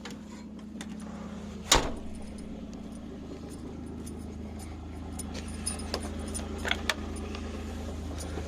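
Utility vehicle engine running steadily while loose items in it rattle and clink, with one sharp knock about two seconds in.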